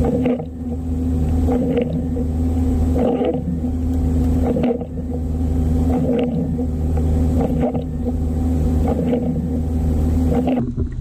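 Jeep Wrangler TJ engine running at a steady idle, with a short clunk about every second and a half.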